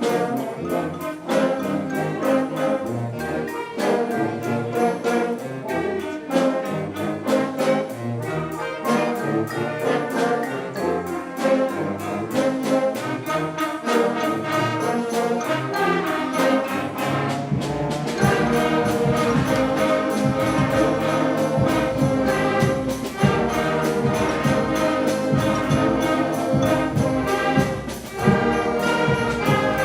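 Elementary school concert band, brass to the fore, playing a piece with a steady percussion beat. About halfway through, the low instruments come in and the band plays fuller and louder.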